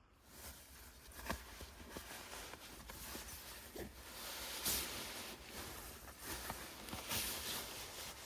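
Rain pattering steadily, with scattered louder drops tapping at irregular moments.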